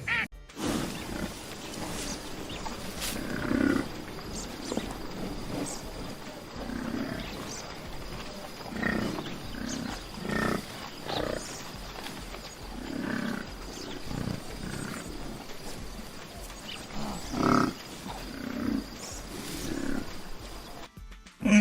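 A large wild animal calling over and over in short, low roars or growls, one every second or two.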